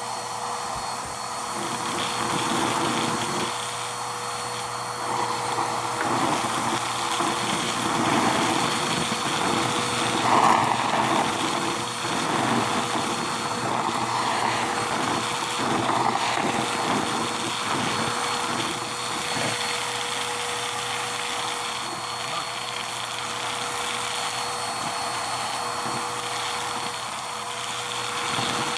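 Vacuum cleaner running steadily with a high whine while sucking up Styrofoam through its brush head, with irregular rattling and crackling as the pieces go in.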